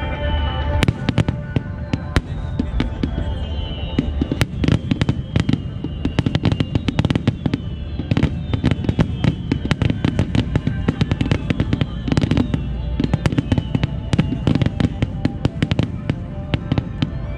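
Star mine fireworks barrage: aerial shells bursting in rapid succession, many sharp bangs and crackles a second over a continuous rumble, with music playing underneath.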